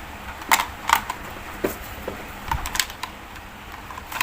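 Batteries being fitted into a toy police car's plastic battery compartment: irregular small clicks and plastic clatter, about ten over four seconds.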